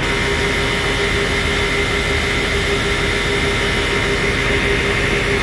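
Ditch Witch West Rival T10 vacuum truck running with its PTO engaged: a steady mechanical drone with a constant high whine over it.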